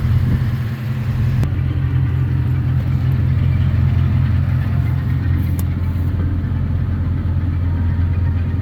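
2008 Ford F-250 Super Duty pickup's engine running steadily at an even pitch, with a brief click about a second and a half in.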